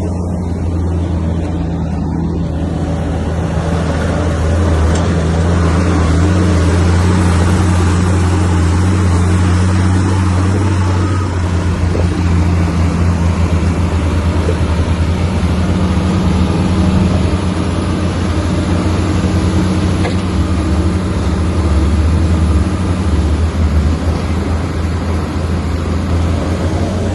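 Komatsu bulldozer's diesel engine running hard with a steady low drone. Rougher noise builds in from about three seconds in, as the machine works under load.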